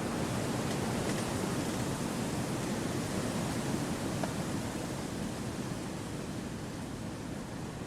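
Wind blowing steadily through forest trees, an even noise that eases slightly near the end.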